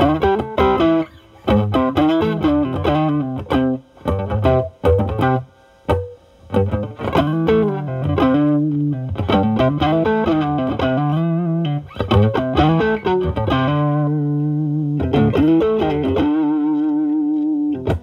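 Stratocaster electric guitar played through a Ceriatone Centura Klon-style overdrive pedal into a Marshall Valvestate amp's drive channel, with the guitar's volume rolled back to clean up the drive. It plays blues phrases with string bends, ending on a long held note with vibrato.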